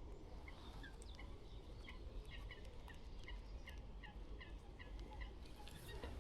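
Birds calling in a spring dawn chorus, led by one bird repeating short, downward-sliding notes about two or three times a second, over a faint low rumble.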